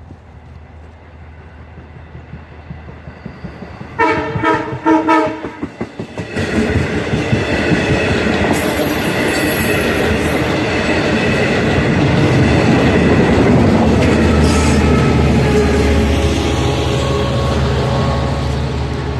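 Long Island Rail Road push-pull train of C3 bilevel coaches, with a DE30AC diesel locomotive at the rear, approaching and passing close by. A quick series of horn blasts sounds about four seconds in. The passing coaches follow with loud wheel clatter over the rail joints and running noise, which stay loud to the end.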